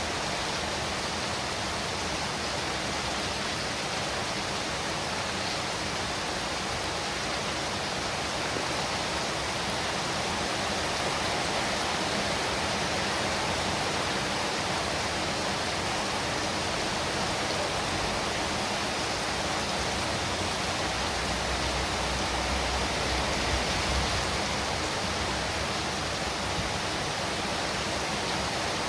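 Steady rain, an even hiss with no breaks. A low rumble swells briefly about three-quarters of the way through.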